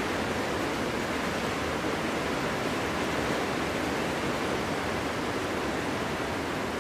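Wind blowing steadily, an even rushing noise without gusts or a howling pitch.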